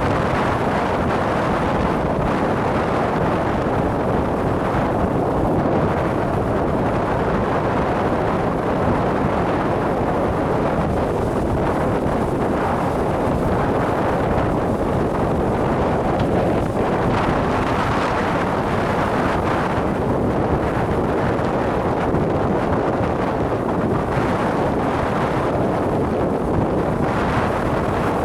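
Strong wind buffeting a handheld camera's microphone, a steady loud rushing noise, with Lake Erie waves washing under it.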